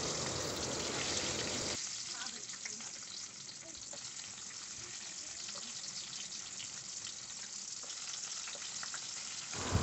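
Whole garlic cloves sizzling and crackling in hot oil in a kadai, an even hiss with small scattered pops that drops in level about two seconds in.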